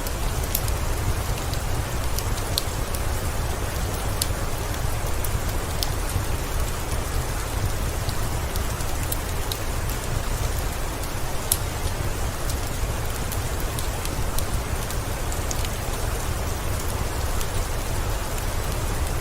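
Steady rain falling, with a low rumble underneath and scattered sharp ticks throughout.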